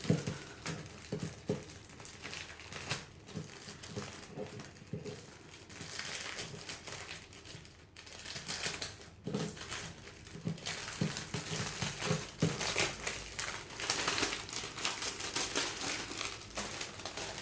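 Crinkling and rustling of parcel packaging being opened and handled by hand, irregular and uneven, getting busier and louder over the last few seconds.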